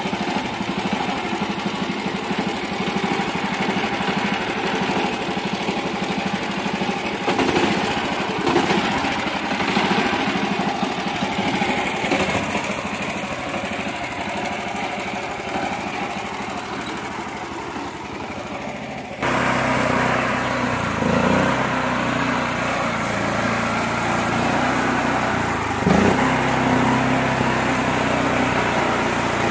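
Mini tractor engine running steadily while working. About two-thirds of the way through, the sound changes abruptly to a louder, more even engine note with a few brief revs.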